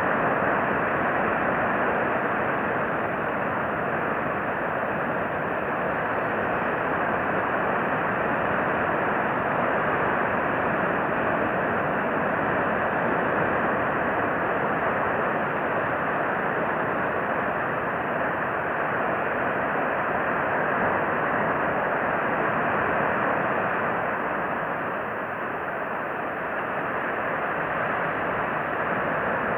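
Steady rushing noise with no distinct events, easing slightly about 25 seconds in.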